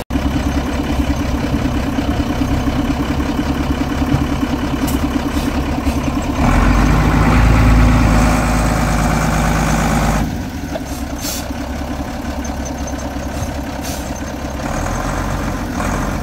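Vehicle engine running as it is manoeuvred on a rough track; it revs harder under load for about four seconds midway, then eases back to a lower, steadier note.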